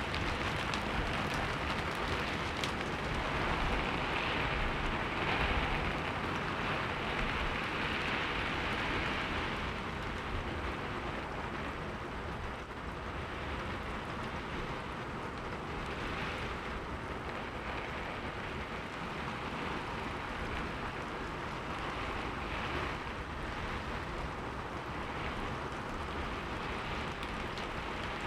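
Heavy rain falling steadily as a dense hiss, swelling louder for a few seconds near the start and easing off again.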